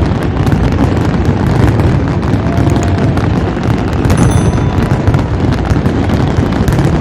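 Fireworks crackling and booming in a dense, continuous barrage, loud throughout, with a deep rumble under many sharp cracks.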